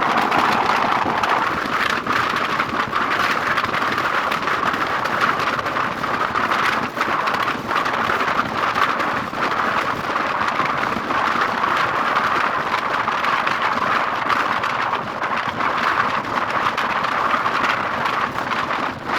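Steady noise of a vehicle travelling at road speed, with wind buffeting the microphone in frequent short crackles.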